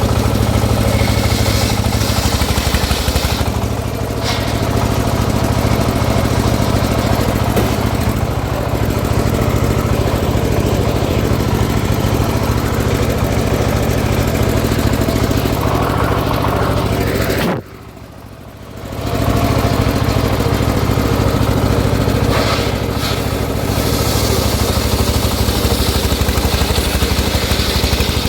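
Engine of a homemade circular sawmill running steadily with the saw turning. The sound drops away abruptly for about a second and a half about two-thirds of the way through, then comes back.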